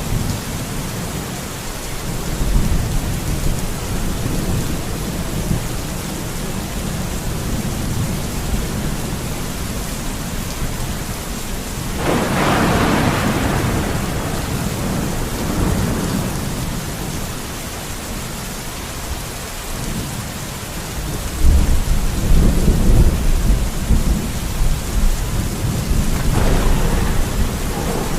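Steady heavy rain with rolling thunder. A thunder peal swells about a third of the way in, and a deep, louder rumble starts about three quarters of the way through and rolls on to the end.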